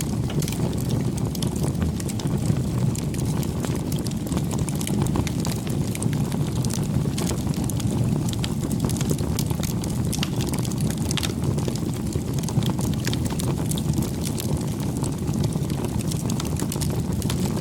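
A campfire burning, a steady low rumble of flame with frequent small, sharp crackles and pops from the burning wood.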